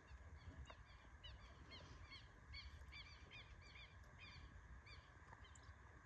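A bird giving a long, quick run of short, high chirps, faint over a steady background hiss.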